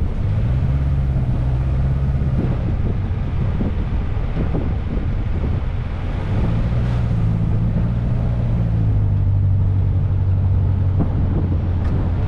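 Vehicle engine running steadily while driving slowly, a low drone heard from a hood-mounted camera, with some wind on the microphone. The engine note changes about six seconds in.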